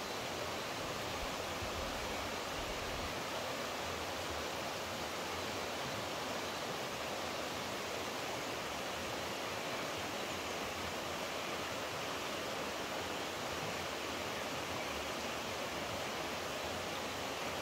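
Flowing water rushing steadily, an even unbroken hiss of a stream or cascade.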